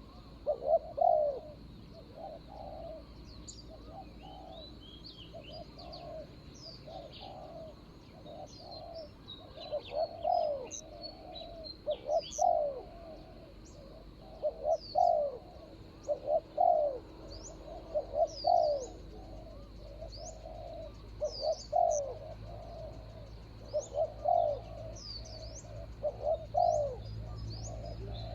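Spotted doves cooing over and over in repeated phrases, with a coo every second or two and some overlapping, as a decoy dove and a wild dove call back and forth. Small birds chirp high above them, over a steady high-pitched hum.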